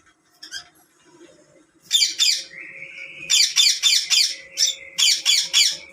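Baby parrot squawking: rapid harsh calls at about four or five a second, in three runs starting about two seconds in, over a steady high tone.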